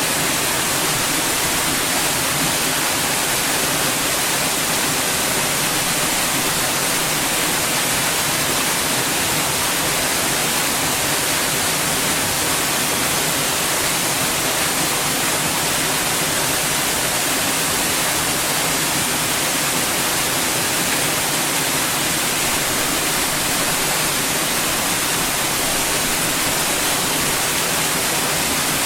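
Steady white noise: an even, unbroken hiss, strongest in the high treble.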